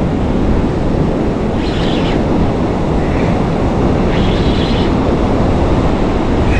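Strong wind rumbling on the microphone over the wash of surf, with a few short hissy surges of breaking water.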